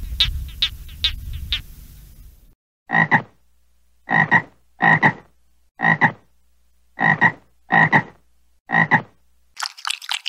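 A frog croaking: seven short, loud croaks about a second apart, starting about three seconds in.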